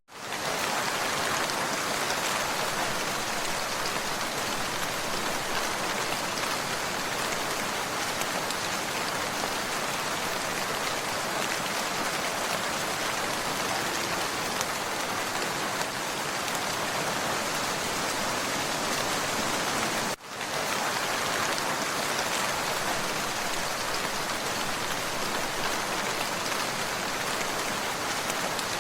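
Steady rain falling, a dense even hiss of drops on surfaces. The sound briefly drops out about twenty seconds in, then carries on as before.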